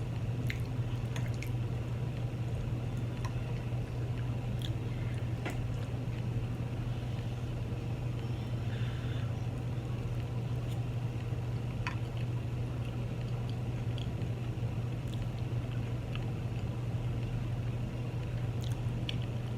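Close-miked chewing and wet mouth sounds of someone eating chili cheese fries with sour cream, scattered small clicks and squishes, over a steady low hum.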